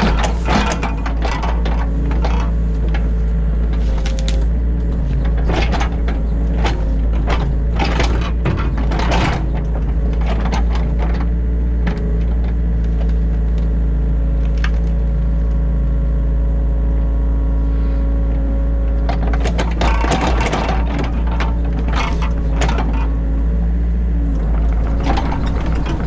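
New Holland E50.2 mini excavator heard from inside its cab: the diesel engine runs with a steady drone while the bucket and arm work, with many clicks, knocks and scrapes bunched in two busy spells, about a third of the way in and again past two-thirds.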